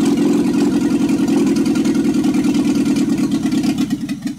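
Opel Corsa 1.2-litre inline-four engine running without a muffler, a loud, fast, steady exhaust rattle, then cutting off abruptly near the end.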